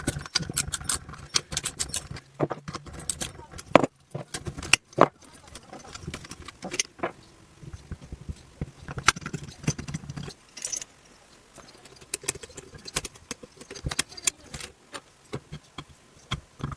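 Metal hand tools clicking and clinking against a small two-stroke engine as the cylinder head bolts are worked loose, in irregular sharp knocks and jingles.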